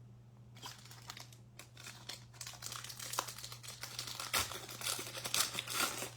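Crinkling and tearing of a foil trading-card pack wrapper as it is opened by hand. The crackling grows denser and louder toward the end.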